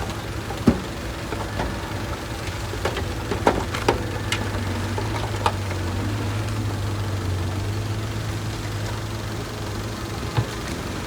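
Heavy diesel engine of earthmoving machinery running steadily, with several sharp metallic clanks at irregular intervals.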